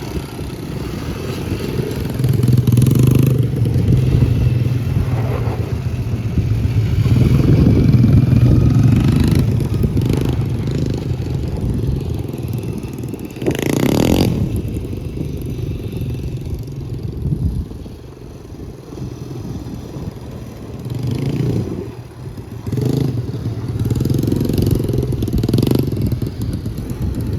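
Small 90cc single-cylinder ATV engine of a Can-Am DS90 quad running under load, its sound rising and falling repeatedly as it is throttled up and eased off, with a short loud rush of noise about halfway through.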